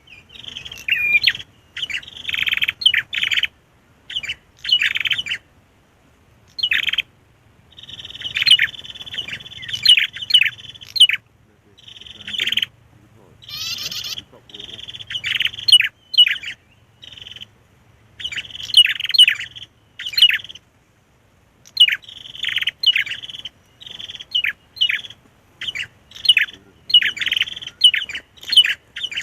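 Prenjak (prinia) song used as a lure call: bursts of sharp, rapid chirping notes in phrases a second or two long, separated by short pauses.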